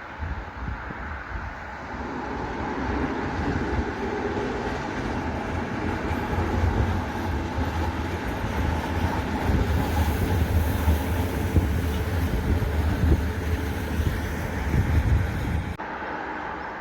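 Train passing on the tracks, a steady rumble of wheels on rail that builds over the first couple of seconds and cuts off suddenly near the end.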